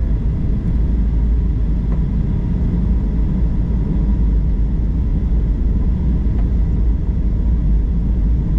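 Airliner cabin noise on approach: a steady low rumble of engines and rushing air.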